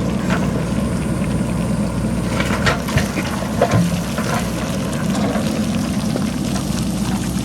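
Diesel engine of a JCB backhoe loader running steadily while digging, with rocks and stones clattering and knocking as they tumble down the hillside, several sharp knocks bunched around the middle.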